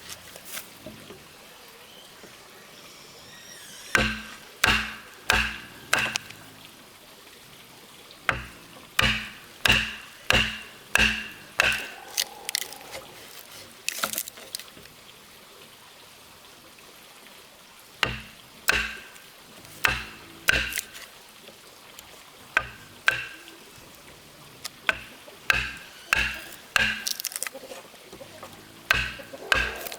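A hand tool striking wood in runs of a few blows, a little under two a second, each blow with a short ringing note, with pauses of a few seconds between runs.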